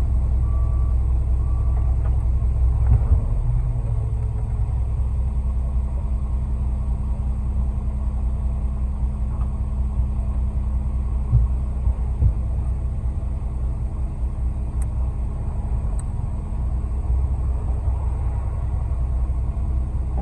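Ready-mix concrete truck's diesel engine running steadily during a pour, a constant low rumble, with a few brief knocks.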